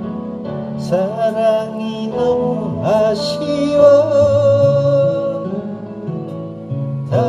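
A singer performing a Korean ballad over backing music, the voice entering about a second in and holding long notes with vibrato.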